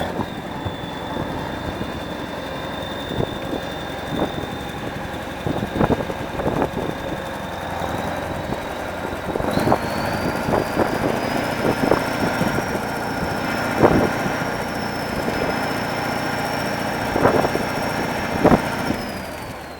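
Kirovets articulated tractor's diesel engine running, with a high whine that climbs in pitch about halfway through as the engine speeds up, and scattered knocks and clanks throughout.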